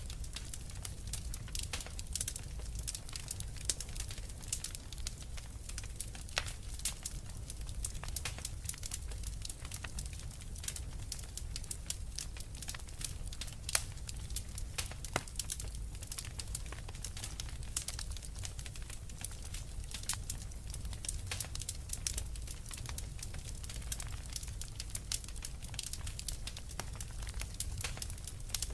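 Wood fire burning in a fireplace: a steady low rumble of flames under constant irregular crackling and popping, with a few louder pops now and then.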